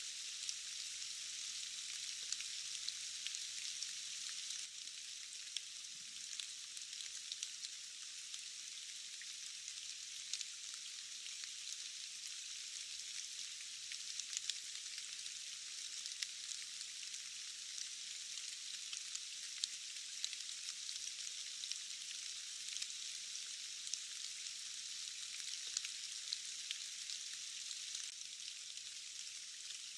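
Steady rain: an even, thin hiss with many small, sharp drop ticks scattered through it, and no low rumble.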